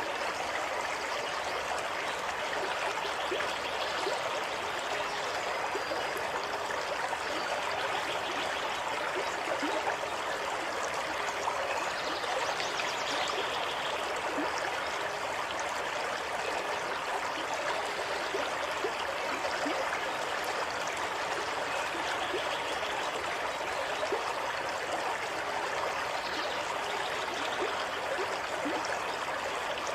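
Water running steadily in a stream, a continuous even rush with fine trickling and bubbling.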